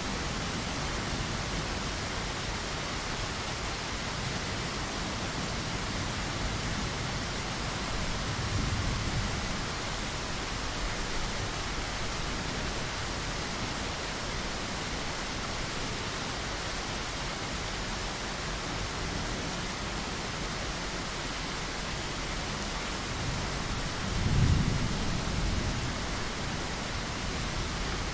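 Steady rain hiss with two low rumbles of thunder, a faint one about a third of the way in and a louder one near the end.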